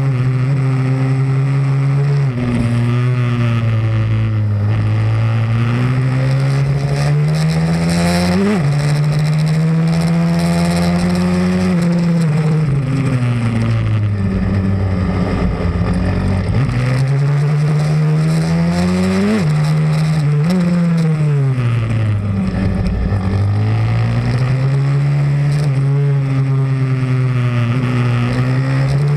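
Pit bike engine being ridden hard around a track: its pitch climbs under acceleration, drops suddenly at gear shifts, and winds down into corners before climbing again, several times over.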